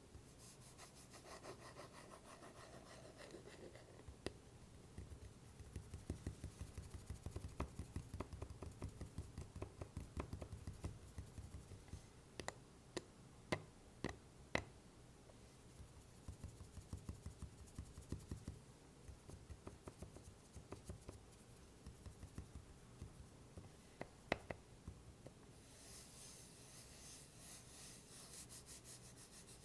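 Fast, light tapping and scratching on a wooden block, with a few sharper knocks among the quick taps and a scratching rasp near the end.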